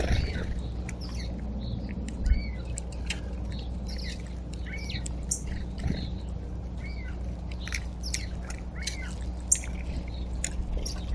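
Backyard birds calling at a feeder: a string of short, arched call notes repeated every second or so, mixed with sharp high chips, over a steady low rumble.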